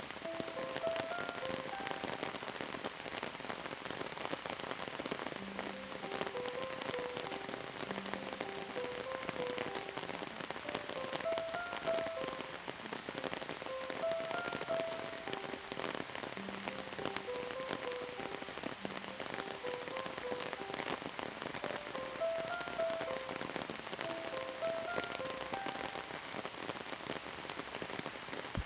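Steady rain falling on a surface, a dense, even patter of many drops. A soft, slow tune of short held notes plays quietly over the rain.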